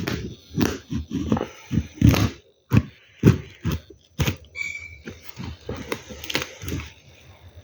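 A parcel being handled and cut open: irregular rustling, scraping and knocks of packaging, with a brief high squeak about halfway through.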